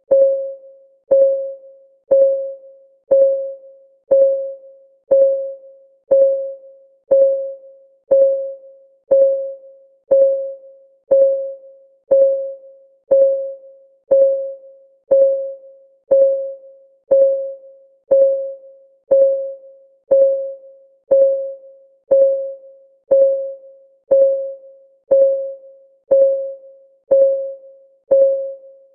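Countdown timer's ticking sound effect: a short, pitched tick once every second, each one a single note that fades away quickly, evenly spaced like a clock.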